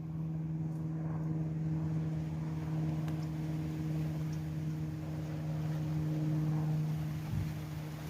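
A steady engine drone holding one unchanging pitch over a low rumble.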